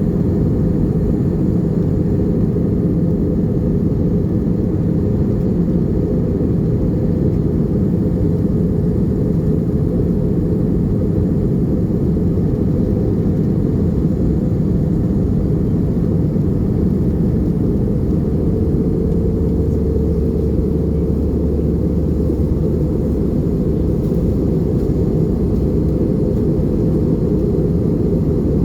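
Airbus A320 cabin noise in flight: a steady, low, even rush of engines and airflow.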